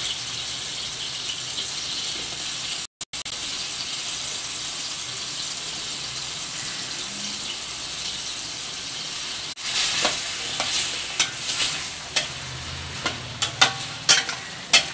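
Drumstick and potato pieces sizzling in a tomato masala in a stainless steel pan. From about ten seconds in, a spatula stirs them, scraping and clicking sharply against the pan.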